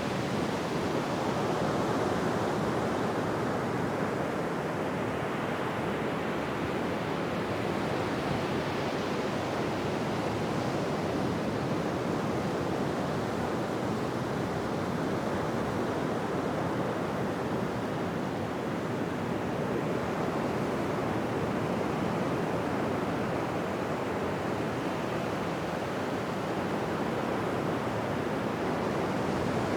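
Ocean surf breaking on a beach: a continuous wash of waves that swells and eases slowly, with no separate crashes standing out.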